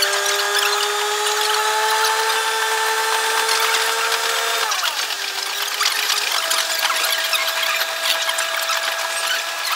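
A train's running sound, sped up six times: a machine whine of several tones climbs slowly, drops suddenly about halfway through, then settles into one steady tone from about six seconds in, over a high hiss and fast ticking.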